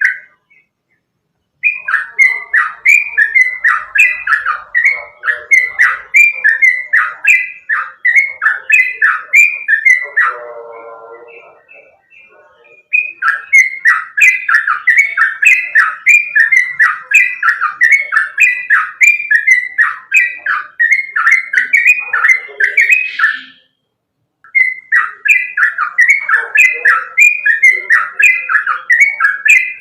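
Sooty-headed bulbul (trucukan) singing loud, rapid runs of evenly repeated chattering notes, in three long bursts broken by short pauses.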